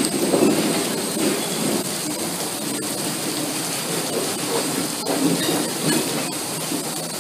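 Tail end of a freight train rolling past, steel wheels on the rails with occasional sharp clicks, slowly getting quieter as the last car pulls away.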